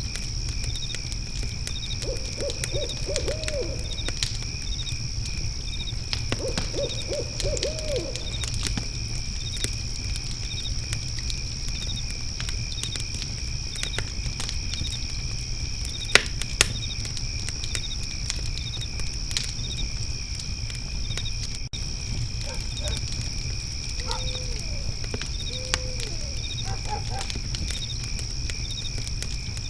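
An owl hooting in short runs of several notes, a few times, over continuous steady cricket trilling. Beneath them is a low rumble with scattered sharp crackles from a fire.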